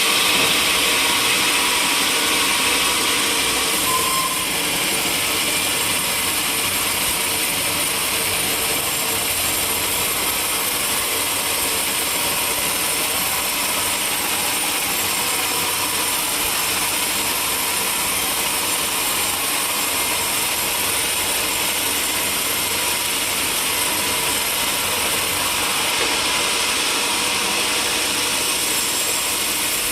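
Sawmill saw and its machinery running steadily, a constant mechanical whine and hum with no break.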